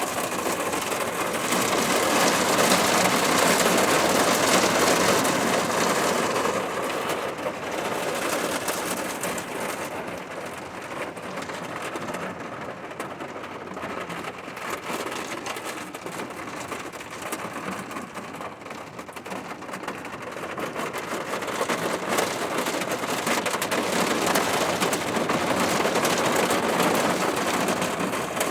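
Rain falling steadily, a dense even wash of noise that swells louder for several seconds near the start and again near the end, easing in between.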